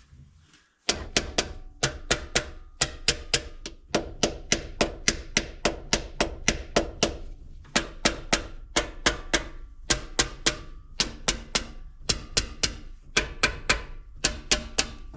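Rapid, evenly paced hammer taps on metal, about three or four a second, each with a short metallic ring, with a steady low hum underneath. The taps begin abruptly about a second in and come in runs with a few short breaks.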